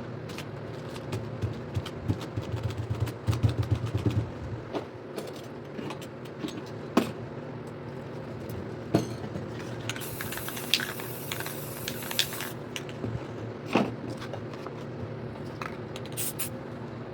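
A spray paint can hissing in one burst of about two and a half seconds, among scattered clicks and scrapes, over a steady low hum.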